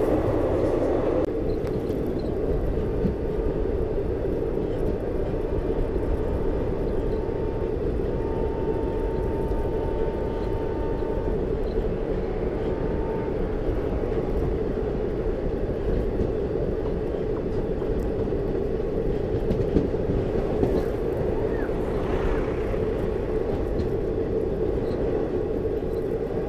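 Express passenger train coach running at speed on the line, a steady rumble and rattle of wheels on rails heard from the coach doorway. A faint thin whine comes and goes midway through.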